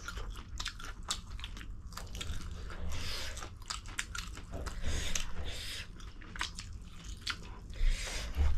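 Close-miked eating: chewing and biting, with many short wet clicks and smacks, as spicy ramen noodles and prawns are eaten.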